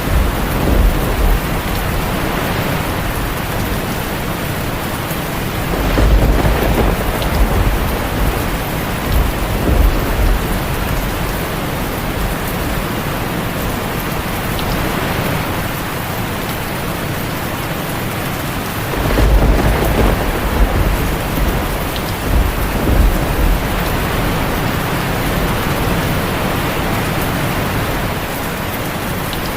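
Heavy rain falling steadily on a tin roof, with rolls of thunder rumbling low several times, the strongest about six seconds in and again a little before twenty seconds in.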